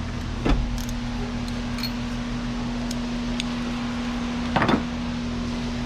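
Steady hum with two short knocks of hand tools, about half a second in and again near the end, as a spark plug socket is fitted onto a plug.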